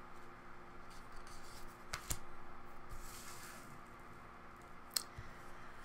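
Tarot cards being drawn from a deck and laid down: a few light taps, two close together about two seconds in and another near the end, with a soft sliding rustle in between.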